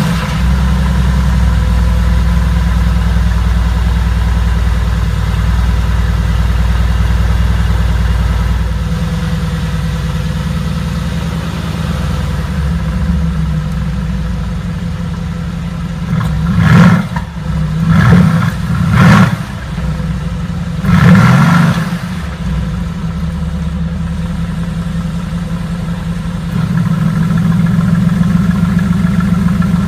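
Mercedes-AMG GT S's 4.0-litre twin-turbo V8 exhaust idling high just after start-up, settling to a lower idle after about eight seconds. About halfway through it is blipped four times in quick rev bursts, then idles again, louder for the last few seconds.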